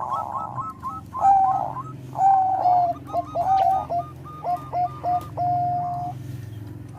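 Zebra dove cooing: a quick run of short, hooked staccato coos mixed with a few longer notes, ending in one long held coo near the end. A low steady hum sits underneath.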